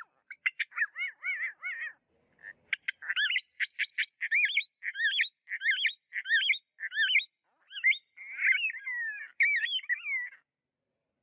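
Northern cardinal singing: a run of repeated slurred whistles, with a short pause about two seconds in, ending shortly before the end.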